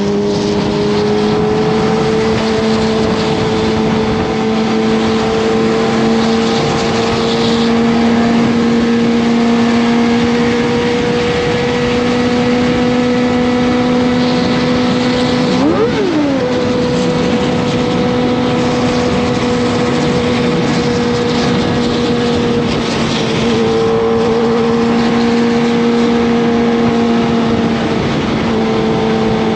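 Kawasaki ZX-25R's 249 cc inline-four engine running steadily at fairly high revs while riding, its pitch creeping slowly. About halfway through the pitch dips sharply and climbs back within a second.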